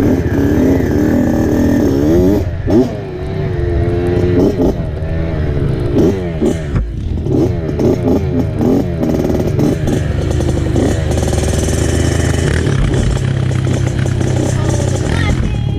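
Dirt bike engine running hard, its pitch rising and dropping back over and over as it accelerates and shifts.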